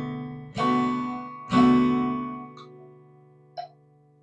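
Guitar strumming a B minor chord twice, about a second apart, then letting it ring and fade. Metronome clicks, about one a second, take over as the chord dies away.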